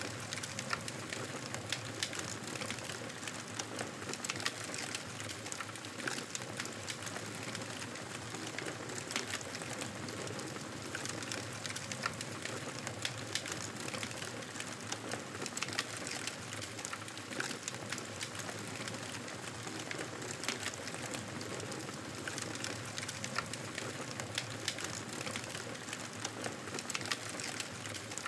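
Campfire burning: a steady hiss with frequent small crackles and pops at irregular intervals.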